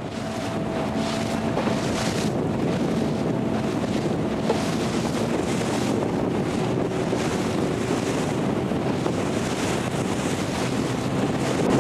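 Strong wind buffeting the microphone, a steady rushing noise that rises and falls in gusts, with wind-driven waves on the lake beneath it.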